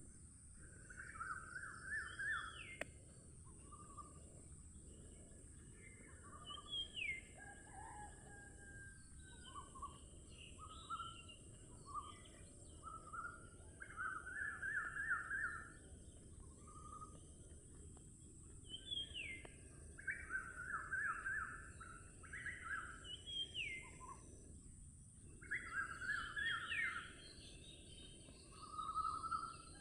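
Wild birds singing in a forest: song phrases every few seconds, some quick runs of repeated notes and some rising whistles, over a steady high-pitched drone.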